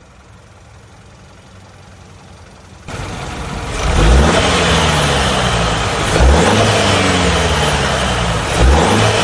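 Chevrolet Silverado's 2.7-litre turbocharged four-cylinder engine comes up loud about three seconds in, then is revved three times, its pitch rising and falling back with each blip.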